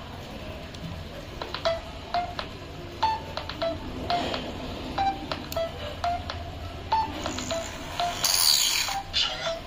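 A quick series of short electronic beeps at shifting pitches, a few a second, each with a click, and a brief burst of hiss near the end.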